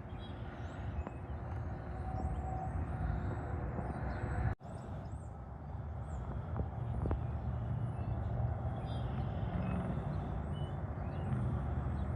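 Interstate highway traffic: a steady low rumble of passing trucks and cars, with short high chirps above it. The sound drops out abruptly for an instant about four and a half seconds in.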